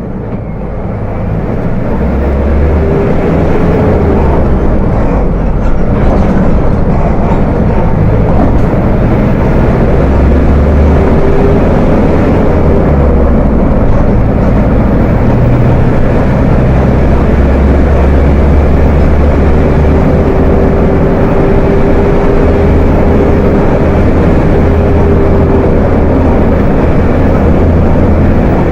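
Volkswagen 17.230 OD bus engine running loud and steady with a deep rumble, building up over the first couple of seconds. A faint whine comes and goes over it.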